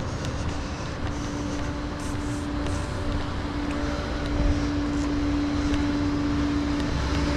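Flatbed tow truck's hydraulics running as the bed is moved: a steady whine comes in just after the start over the low, steady running of the truck's engine.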